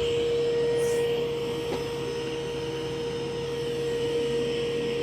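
Mova V50 robot vacuum running on carpet: a steady suction-fan whine with one held tone over a rushing noise.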